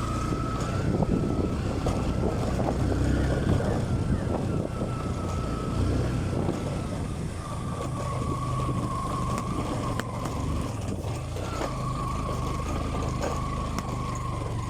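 Motorcycle running while being ridden over a rough, potholed dirt road: a steady low engine rumble with a high whine over it and a few short knocks and rattles from the bumps.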